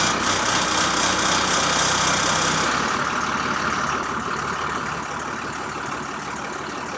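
Dump truck engine just after starting, running fast at first, then dropping to a slower, quieter idle about three seconds in.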